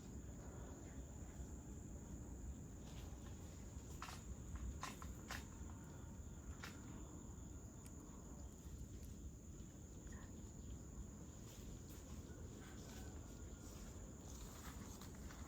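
Faint, steady, high-pitched insect chorus over a low background rumble, with a few sharp clicks about four to seven seconds in.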